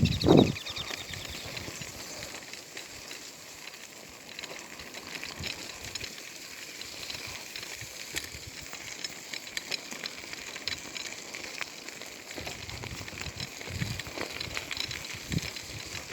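Outdoor ambience: a steady faint hiss with scattered small clicks and crackles, and a few low thumps in the last few seconds.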